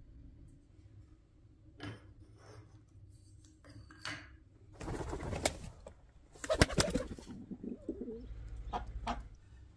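A bird calling, among several sharp knocks and rustling clatters; the loudest clatter comes about six and a half to seven seconds in.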